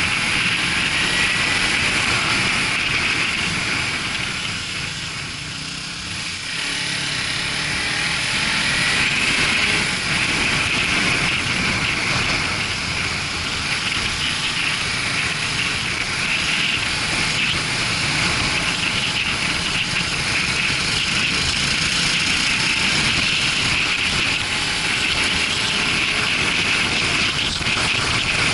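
Motorcycle running on the move, its engine under steady wind rush. It eases off briefly about five seconds in, then picks up again.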